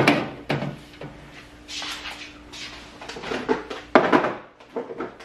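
Food containers and items being set down and moved around on refrigerator shelves and drawers: a sharp knock right at the start and another about four seconds in, with scuffing and light clatter between.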